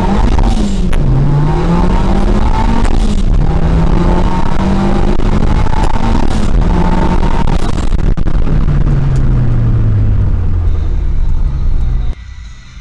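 Turbocharged Skoda 120 engine heard from inside the cabin, revving hard through the gears during a drag run. The pitch climbs and drops back at each of three upshifts, holds, then falls steadily as the car slows. The sound cuts off suddenly near the end.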